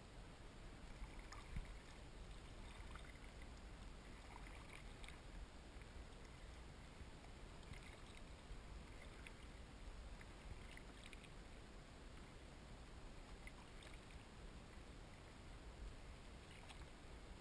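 Faint kayak paddling on flat water: soft, irregular paddle dips and drips over a quiet background hiss.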